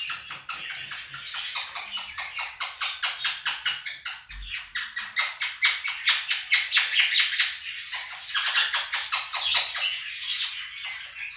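Two Quaker parrots (monk parakeets) squawking and chattering loudly in rapid strings of sharp calls, over the warbling chatter of a budgerigar flock played back from a recording.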